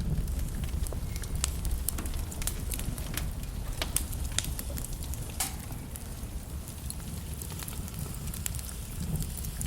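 Wood logs burning in a fireplace: scattered sharp crackles and pops over a low, steady rumble of flame. The pops come thickest in the first half, the loudest about four seconds in.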